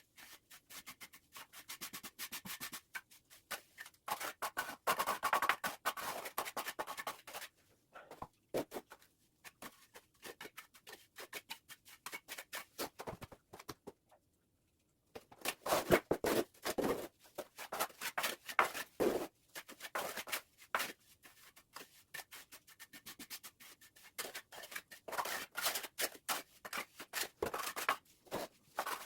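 Steel trowel scraping and rubbing over wet cement mortar in quick, irregular strokes, with a short break about halfway through.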